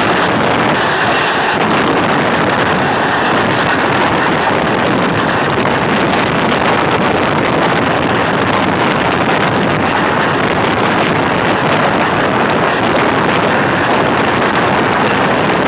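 Loud, steady rushing noise from the open window of a passenger train moving at speed: wind blowing over the microphone mixed with the train's running noise.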